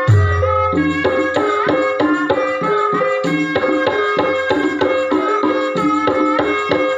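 Javanese gamelan music of the kind played for ebeg: struck bronze metallophones ringing out a fast, evenly pulsed repeating melody over hand drums, with a deep low gong-like boom right at the start that dies away within the first second.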